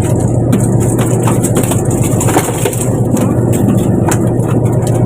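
A fishing boat's engine running steadily with a deep, even hum, with scattered short clicks and knocks over it.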